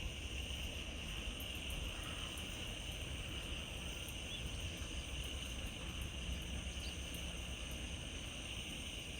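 Faint, steady outdoor ambience: a low rumble of wind on the microphone under a steady high-pitched hiss.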